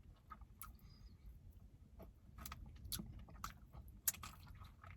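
Faint chewing of sticky fried chicken wings: scattered soft wet mouth clicks and smacks.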